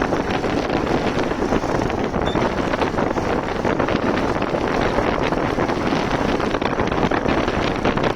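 Wind rushing and buffeting over the microphone of a moving motorcycle, a steady loud roar of noise.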